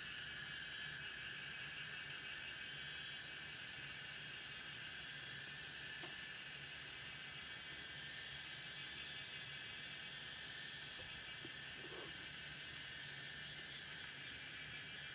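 Steady high-pitched insect chorus, a continuous shrill hiss with a fine pulsing trill, over a low steady hum. There is a faint short call about six seconds in and another about twelve seconds in.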